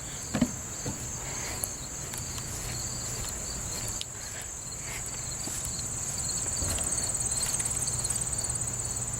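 Steady high-pitched chorus of trilling insects with a fine rapid pulse, continuing without a break. A few faint clicks sound near the start.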